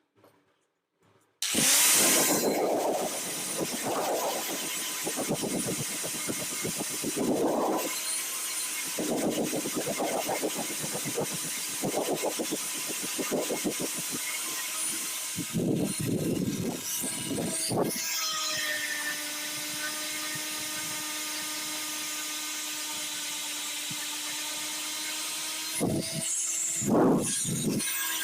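An electric power tool starts up about a second and a half in and runs steadily, its sound swelling and easing over and over as it is worked against the rusty steel wrench. Later it spins on with an even whine and is loaded briefly again near the end.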